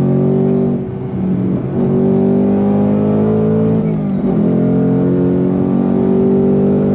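The Mustang Dark Horse's 5.0-litre Coyote V8 pulling hard under throttle, heard from inside the cabin: the engine note climbs steadily, drops back briefly about a second in and again around four seconds in, as at gear changes of the six-speed manual, then climbs again.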